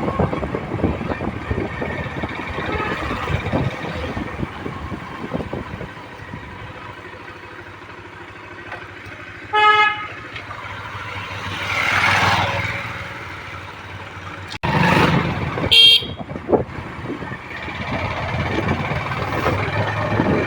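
Riding noise from a motorcycle on the road, with wind and engine rumble. A vehicle horn gives a short toot about halfway through, a vehicle swells past a couple of seconds later, and another short, loud horn blast sounds about three-quarters of the way in.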